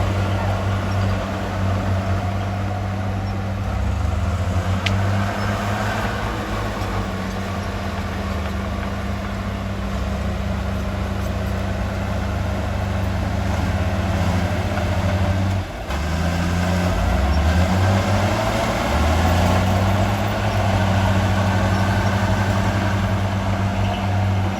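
Heavy diesel engine of earthmoving machinery running steadily under varying load, its low note stepping up and down several times, with a brief dip about two-thirds of the way through.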